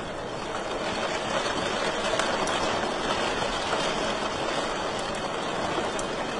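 Wood fire burning in a fireplace: a steady rushing hiss with a few faint crackles and pops scattered through it.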